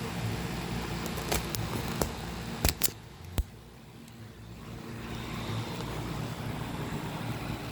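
Concord 4AC13 heat pump outdoor unit running with a steady low hum. A few sharp clicks come between about one and a half and three and a half seconds in, then the sound drops away and builds back up gradually.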